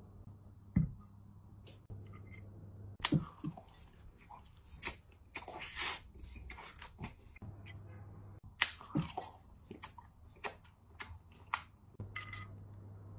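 A person eating close to the microphone: irregular sharp clicks and smacks of biting and chewing, over a low steady hum.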